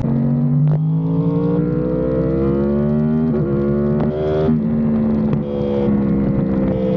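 Motor vehicle engine accelerating: its pitch climbs steadily for about four and a half seconds, with a few short breaks, then drops and holds roughly level, as with a gear change.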